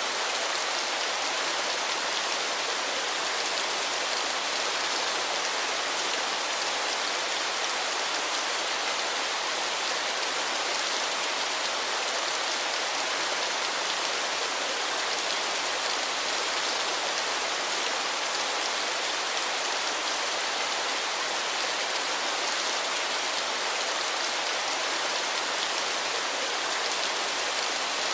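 Waterfall: falling water making a steady, even rushing hiss, mostly in the high range with little bass.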